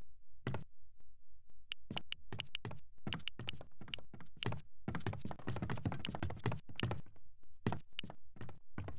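A steady run of sharp thuds, about three a second, that crowd into a dense flurry in the middle.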